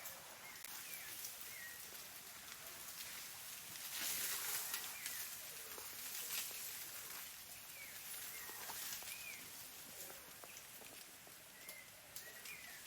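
Rainforest ambience: a steady high-pitched insect hiss that swells for a moment about four seconds in, with short repeated bird chirps and a few faint clicks.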